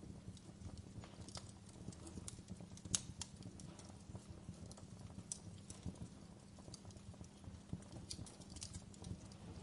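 Wood fire burning in a fireplace: irregular sharp crackles and pops over a low, steady rumble of the flames, with one louder pop about three seconds in.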